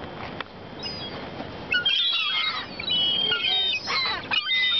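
A flock of gulls calling, many high gliding calls overlapping from about two seconds in. The gulls are crowding for bread.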